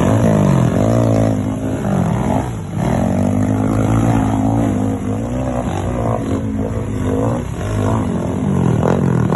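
A vehicle engine revving up and down repeatedly under load while fording a river, with water deep enough to reach the exhaust pipe.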